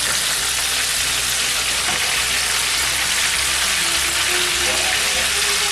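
Aubergine slices shallow-frying in seed oil in a pan, a steady loud sizzle.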